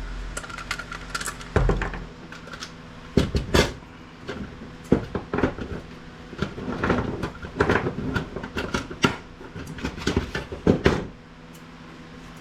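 Irregular clicks and clinks of small metal screws and standoffs being unscrewed and handled while a circuit board is taken out of scrap IT equipment, over a steady low hum. The clicking stops about eleven seconds in.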